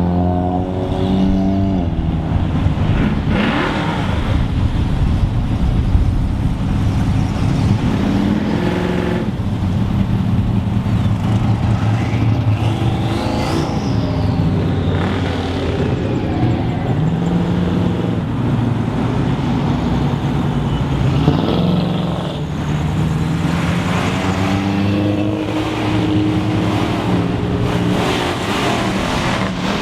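Cars driving past one after another with their exhaust headers open: loud, continuous engine exhaust with repeated revving that rises and falls as each car passes.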